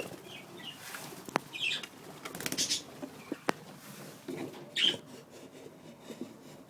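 Pet budgerigars moving about, with scattered scratching and tapping clicks, rustling and flutter bursts, and a few short high chirps.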